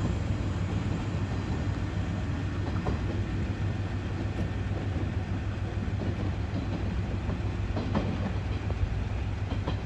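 JNR-era 413/455 series electric train rumbling steadily as it runs away down the track, with a few sharp clacks of wheels over rail joints.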